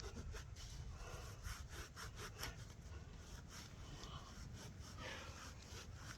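Faint rubbing and scraping on a small dug-up copper coin as dirt is worked off it, with a quick run of short scratches between about one and three seconds in, over a low rumble.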